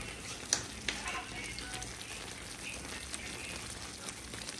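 Chicken and vegetables sizzling steadily in a frying pan, with a couple of sharp clicks from the spoon against the pan as they are stirred.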